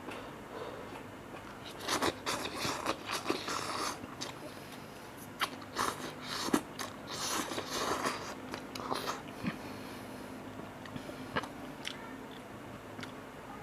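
Close-up eating sounds of someone eating cup noodles: chewing and biting in two busy spells, then a few soft mouth clicks near the end.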